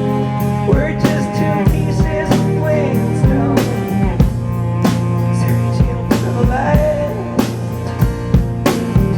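Live indie folk band playing, a drum kit keeping a steady beat under held bass and chord notes.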